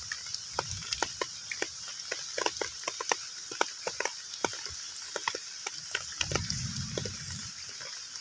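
Heavy rain falling on a pond, individual drops plinking irregularly and densely on the water over a steady high hiss. A low rumble swells briefly about six seconds in.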